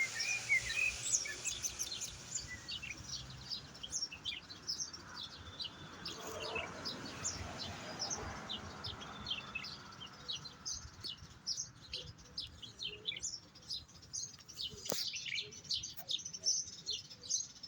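European goldfinch singing: a long, rapid run of short, high twittering chirps, with one sharp click about fifteen seconds in.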